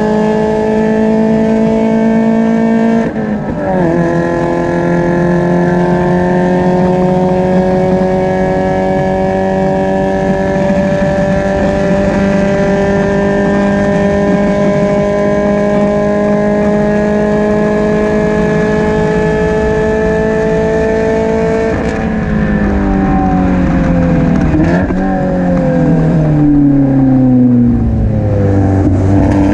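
Spec Miata's four-cylinder engine, heard at the exhaust, pulling hard on track. Its pitch drops once about three seconds in, as at a gearshift, then climbs slowly for a long stretch, falls in several steps after about twenty-two seconds, and rises again near the end. The owner says the engine still misfires and is down on power.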